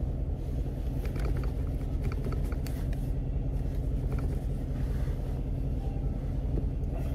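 Car engine idling, a steady low rumble heard from inside the cabin, with a few faint clicks about one to three seconds in.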